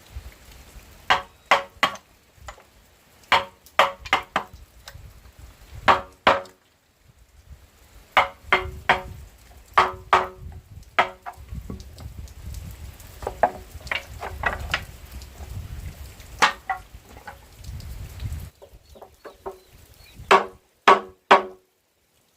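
Repeated blows of a hand tool on wood, in quick groups of two to four strikes, each with a short ringing note.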